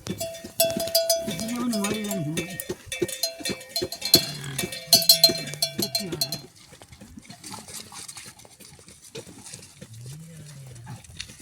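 Livestock bells clanking and clinking with a ringing tone for about six seconds, then fading to a softer jingle. A few low, drawn-out calls sound in between.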